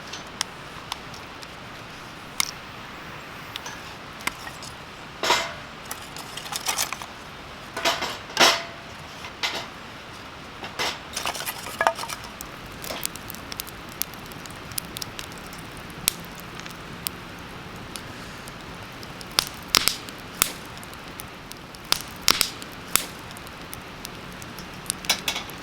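Camp cookware and utensils clinking and knocking in irregular short strikes, a few with a brief metallic ring, over a steady faint hiss.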